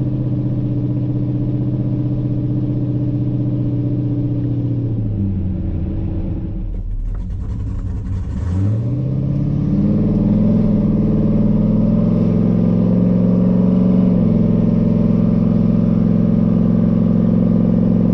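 Cammed 5.3-litre LS V8 in a Chevy S10 pickup, driving through a 4L60 automatic with a big-stall torque converter. The engine note drops about five seconds in, climbs again around nine seconds, and holds higher and steady before falling away near the end.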